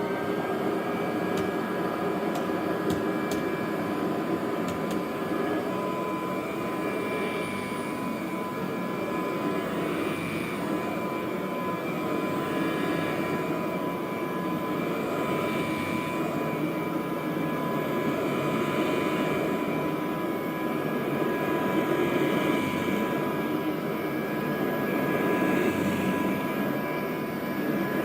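1957 Kirby Model 517 upright vacuum cleaner running steadily: a high, steady motor whine over the rush of the fan. The sound swells and eases every two to three seconds as the vacuum is pushed back and forth over the floor.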